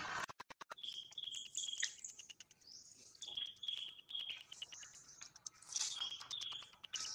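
Wild birds calling: runs of short, repeated high chirps, two or three a second, mixed with higher rising whistled notes.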